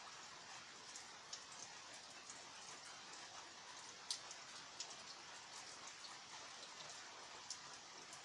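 Steady rain with scattered heavier drops ticking, one louder drip about four seconds in.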